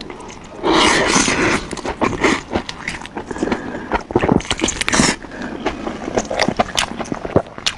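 Close-miked eating sounds: wet chewing, lip smacks and mouth clicks while eating chili-coated fried buns, with a louder crackling burst about a second in.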